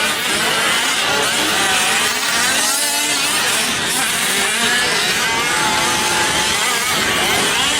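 Several 1/5-scale gas RC trucks' small two-stroke engines revving and buzzing together, their pitches rising and falling as they race around the track.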